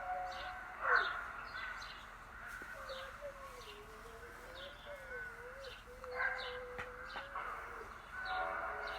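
A long, unexplained howl-like tone that wavers slowly up and down in pitch for about five seconds, starting between two and three seconds in, over birds chirping.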